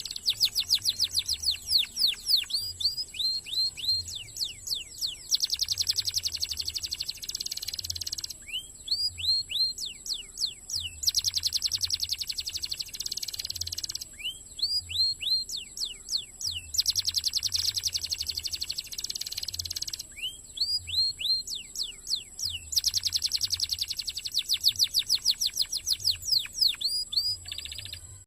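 Domestic canary singing: fast dense trills alternating with runs of whistled notes that sweep downward in pitch, the phrase pattern repeating about every six seconds.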